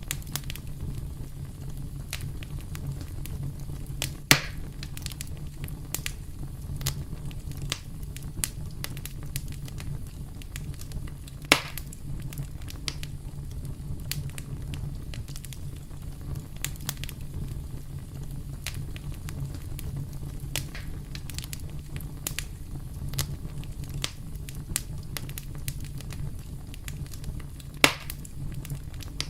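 Campfire burning: a steady low rumble of flame with constant small crackles. Three loud sharp pops stand out, about four seconds in, about eleven seconds in, and near the end.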